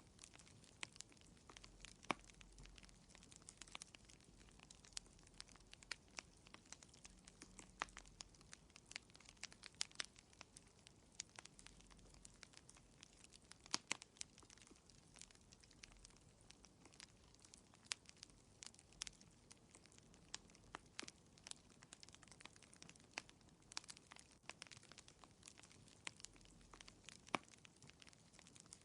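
Wood fire crackling in a fireplace, quietly: many small irregular pops and snaps, with a few sharper pops about two seconds in, near the middle and near the end.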